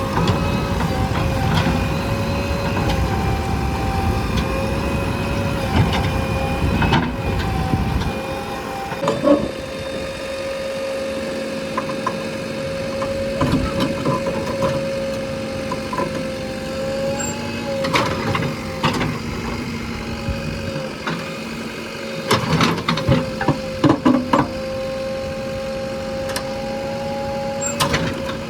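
Backhoe loader's diesel engine running with a steady whine, heavier for the first eight seconds and then lighter, with scattered knocks and clanks, several close together about three-quarters of the way through.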